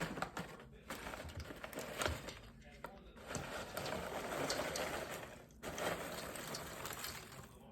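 Rustling and light clattering from handling a bag of freshly popped microwave popcorn, with a denser stretch of rustling about three seconds in that lasts a couple of seconds.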